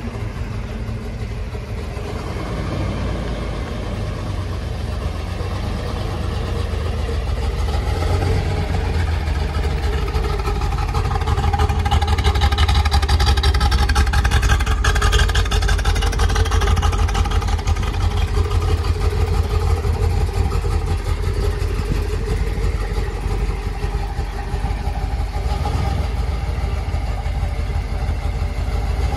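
1968 Corvette's L71 427 big-block V8 idling with a steady low rumble, growing louder for several seconds about halfway through.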